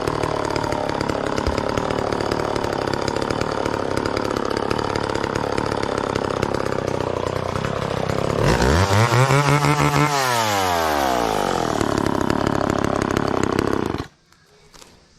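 McCulloch Mac 10-10 two-stroke chainsaw running and sawing through hard Osage orange wood. About eight seconds in the engine revs up and winds back down, and the sound cuts off suddenly near the end.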